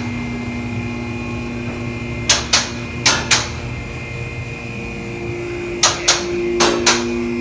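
Four pairs of sharp knocks, the two knocks of each pair about a quarter second apart, over a steady hum.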